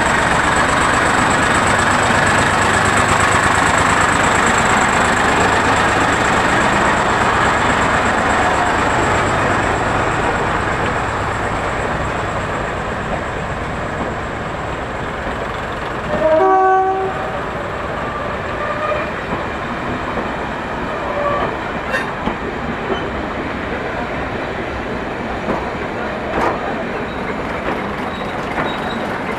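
Ruston & Hornsby LSSH diesel shunter pulling a train of diesel multiple units away, its engine working and the rumble slowly fading as the train moves off. A short horn blast sounds about halfway through, and later there are a few sharp clicks of wheels over rail joints.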